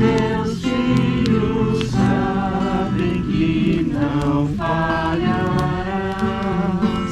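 A group of people singing a Portuguese hymn together to acoustic guitar accompaniment, in slow held notes.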